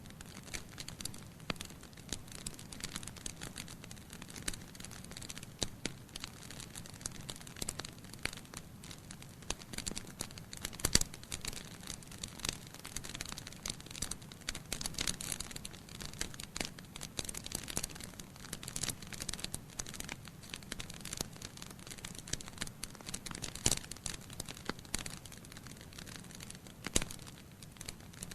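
Wood fire burning in a fireplace: a steady low rush of flames with irregular sharp crackles and pops from the logs, a couple of louder pops along the way.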